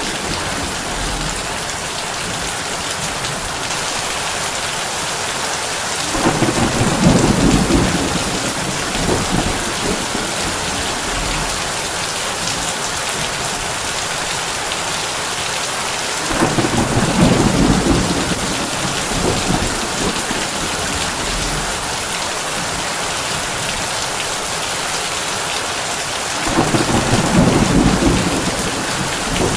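Heavy rain on a tin roof, a steady hiss, with thunder rumbling three times, each roll lasting a few seconds, about ten seconds apart.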